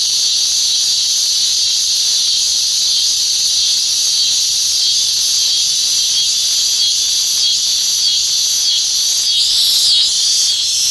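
Steady, high-pitched drone of a late-summer insect chorus, swelling slightly near the end.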